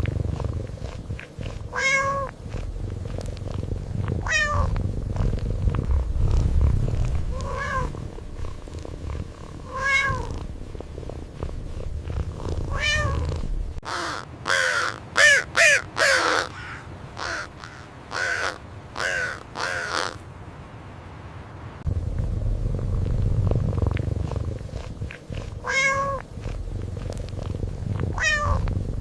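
Domestic cat purring with a steady low rumble, broken by single meows every two or three seconds. About halfway through, the purring stops for a quick run of louder meows, then it resumes.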